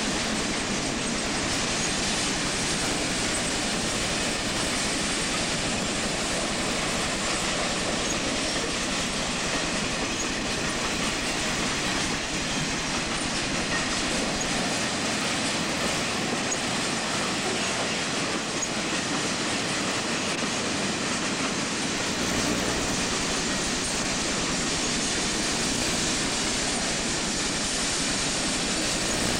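Freight train cars rolling past steadily, steel wheels running and clattering over the rail.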